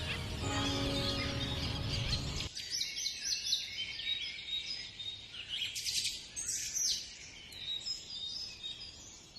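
Background music that cuts off about two and a half seconds in, leaving birds chirping: many short, high calls, some falling in pitch, growing fainter toward the end.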